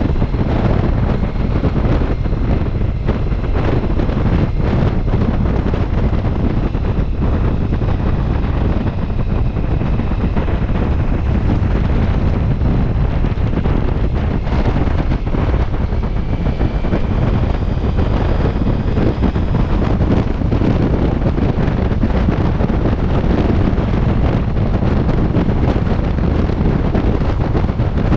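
Heavy wind buffeting on the microphone of a motorcycle riding at speed, with faint engine tones underneath that rise slightly about halfway through.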